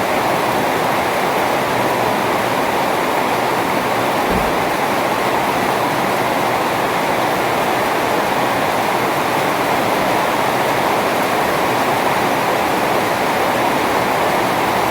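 Heavy rain pouring steadily, an even hiss and patter at constant strength. A brief low thud about four seconds in.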